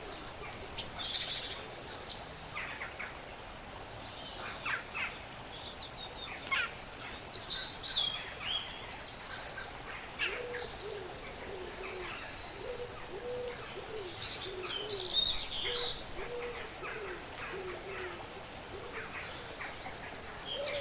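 Woodland birds calling: small birds chirping and trilling high up. Through the middle there is a run of low, repeated hooting notes from a larger bird. A few sharp clicks stand out near the start.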